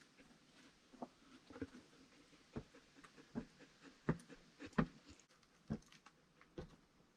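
A series of light, irregular knocks and clicks, roughly one or two a second, with the strongest pair about four and five seconds in.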